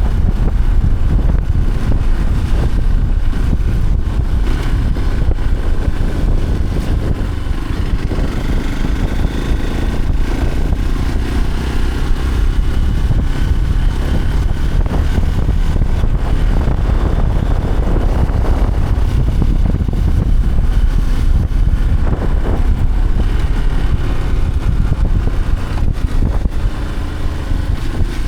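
A motor vehicle running steadily while on the move, with a heavy, continuous low rumble and no distinct events.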